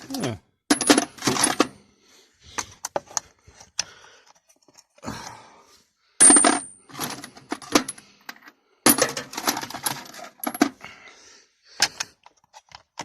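Metal hand tools clinking and clattering as they are gathered up and dropped back into a toolkit, in several bursts of rattling with short pauses between, some with a brief metallic ring.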